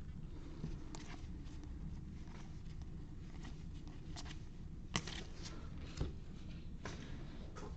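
Baseball trading cards being handled and flipped through from an opened pack: scattered light clicks and rustles of card stock, with a sharper click about five seconds in and another about a second later, over a low steady room hum.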